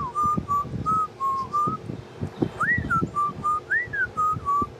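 African grey parrot whistling a run of short, clear notes, with two higher swooping notes that rise and fall, over soft low thuds.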